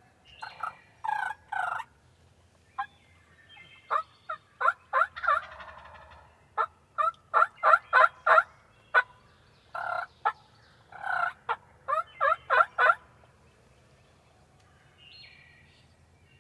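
Wild turkey calling: several bursts of short, sharp call notes, with a fast run of notes in the middle.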